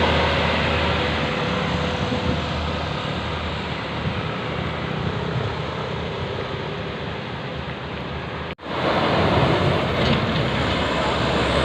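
Heavy dump truck engines running steadily under load, mixed with rushing wind-like noise. The sound drops out abruptly for a moment about eight and a half seconds in, then resumes a little louder.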